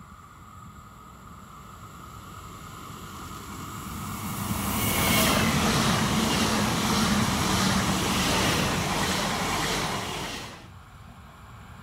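Electric multiple-unit passenger train approaching and passing close by: a growing rush of wheels and traction noise, loudest from about five seconds in, that drops off suddenly at about ten and a half seconds as the last car goes by.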